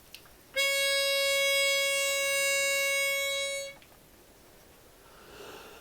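A single held starting note from a pitch pipe: one steady reedy tone a little above 500 Hz, lasting about three seconds and stopping cleanly. It gives the choir its pitch before the round begins.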